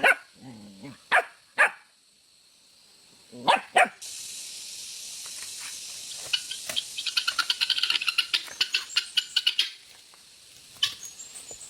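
A dog barks a few short times. Then, from about four seconds in, a steady hiss with dense crackling sets in, like food sizzling in a hot pan, fading out near ten seconds.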